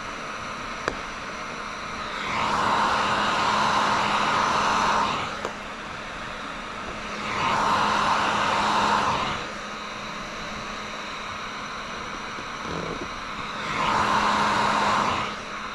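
Heat gun blowing hot air in three passes of two to three seconds each over a steady motor hum, heating the window film to work out a small trapped spot in the corner.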